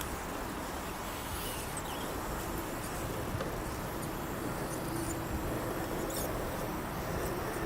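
RC scale crawler driving over the forest floor: a steady noisy crunching with a faint motor and gear whine in the middle, and a few short high squeaks.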